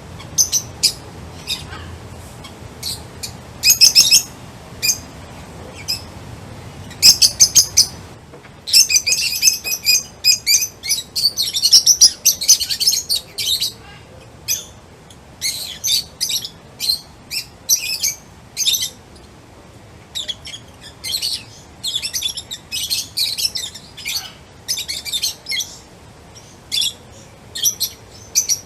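Small birds chirping: many short, high chirps in quick runs, busiest in two dense stretches.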